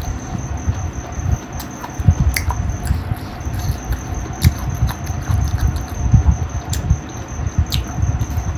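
Close-miked chewing of spicy chicken feet with rice: irregular soft, wet mouth thumps with scattered sharp lip-smacks and clicks.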